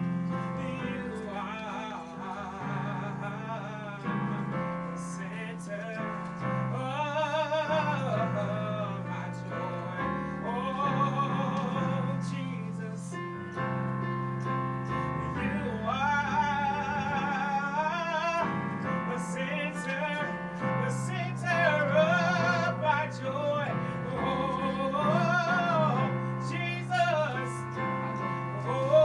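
A singer with a strong vibrato sings a slow song over piano accompaniment, phrase by phrase.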